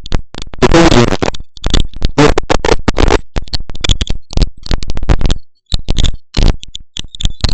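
Loud crackling static from a faulty microphone, coming in choppy bursts that cut in and out several times a second.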